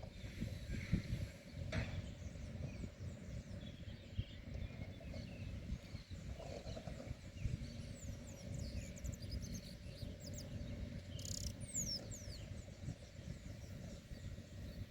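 Outdoor ambience: birds chirping here and there, with a quick run of high, falling chirps about eleven seconds in, over a steady low rumble.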